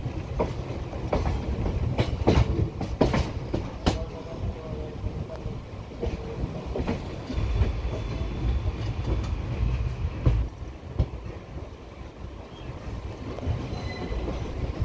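Passenger train running along the track, heard from an open coach doorway: a steady low rumble of wheels on rail, with a quick run of sharp clacks over rail joints in the first few seconds.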